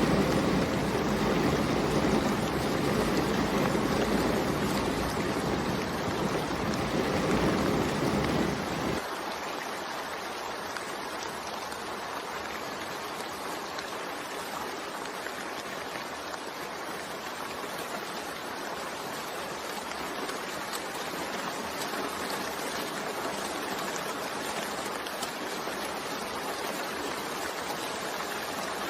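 Steady rain, an even hiss of falling water. About nine seconds in, the sound changes abruptly: a heavier, deeper rumble drops away and a lighter, thinner rain hiss carries on.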